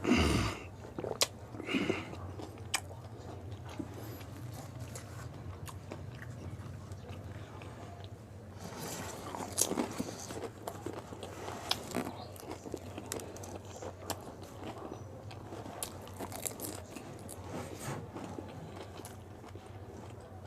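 Close-up chewing and crunching of pani puri, crisp fried hollow shells filled with spicy water. Crunches come scattered, with a louder one at the start and a denser run about nine to ten seconds in, over a steady low hum.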